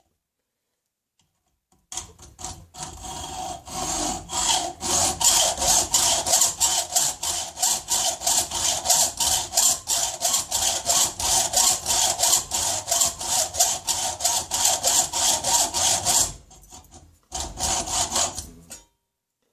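Rapid, even back-and-forth hand strokes cutting metal, about three strokes a second. A long run of strokes stops about 16 s in, and a shorter run follows near the end.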